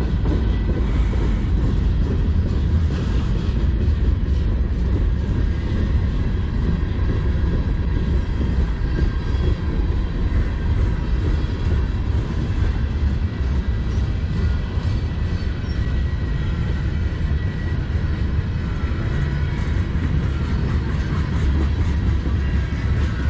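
Freight cars of a manifest train, including centerbeam flatcars, tank cars and a boxcar, rolling past close by: a steady rumble of steel wheels on the rails.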